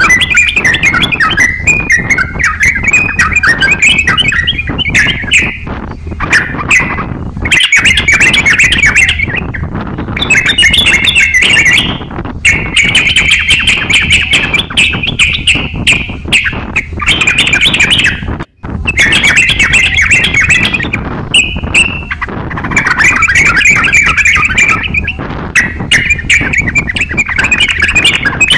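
Crokcokan songbird singing continuously in loud, chattering phrases of a few seconds each, with short breaks between them and a brief gap about 18 seconds in.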